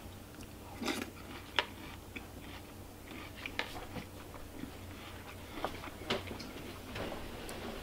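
A mouthful of breakfast cereal in milk being chewed: soft mouth sounds broken by scattered short crunches and clicks, the sharpest about one, one and a half, three and a half and six seconds in.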